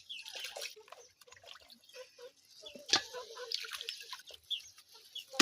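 Birds chirping in many short, high, quick notes, mixed with short low calls. There are two sharp knocks, one about three seconds in and one at the very end.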